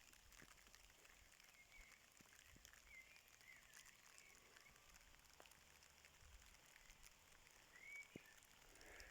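Faint light rain, scattered raindrop ticks, with a few short bird chirps about two, three and eight seconds in.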